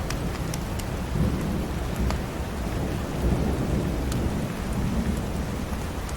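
Steady rain with a low rolling rumble of thunder that swells twice. Scattered sharp crackles from a wood fire run through it.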